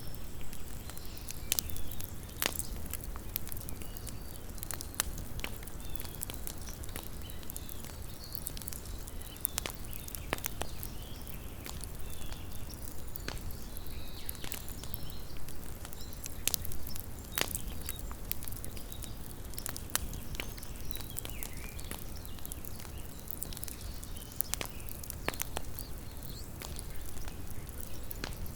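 Campfire crackling, with frequent irregular sharp pops and snaps over a low, steady background noise.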